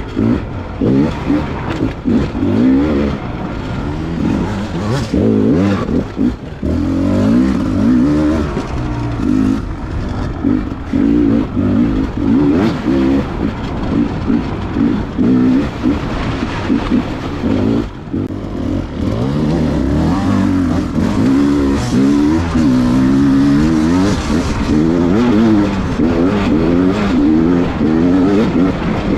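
Beta 300 two-stroke enduro motorcycle engine being ridden hard, its revs rising and falling again and again as the throttle is opened and closed.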